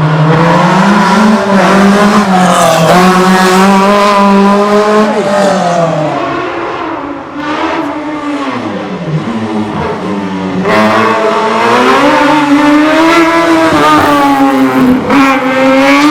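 Racing prototype car's engine at high revs, backing off about six seconds in, then accelerating hard again about eleven seconds in and holding high revs.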